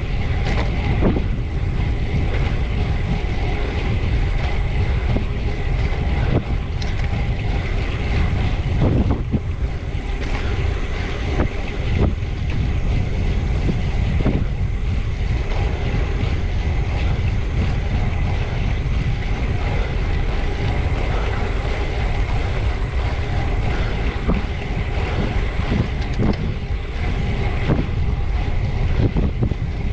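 Steady wind rushing over the microphone of a camera on a bicycle ridden hard at speed, with a low rumble underneath and a few faint light ticks.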